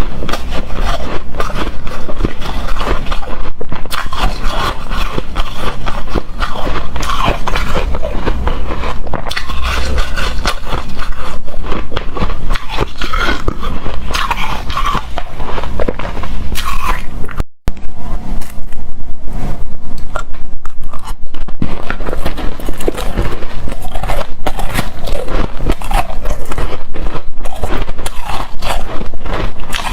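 Hard frosty shaved ice crunching loudly and without pause as it is bitten and chewed, with one sudden break of about a quarter second a little past halfway.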